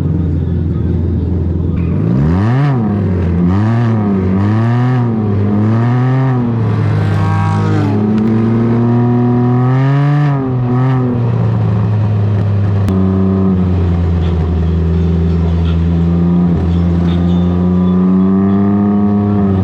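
Can-Am Ryker engine through a BKD Insomnia series aftermarket exhaust, revving up and down several times in quick succession, then climbing and dropping sharply about ten seconds in. After that it runs at a fairly steady pitch that rises slowly near the end, over a steady low drone.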